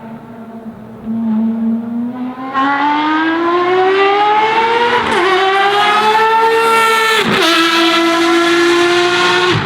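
Ferrari FXX Evoluzione's V12 accelerating hard on track, growing louder as it comes closer. The engine note climbs through the gears, with two quick upshifts about five and seven seconds in.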